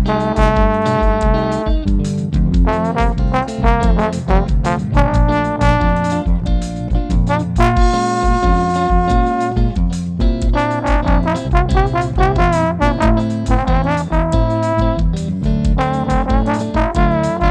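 Instrumental band music led by a trombone playing a melody, its long notes wavering in places, over a steady, pulsing bass line.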